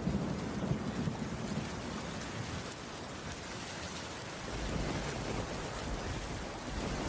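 Steady rain falling on a wooden cabin roof, with a low rumble of thunder in the first couple of seconds that fades and swells again about halfway through.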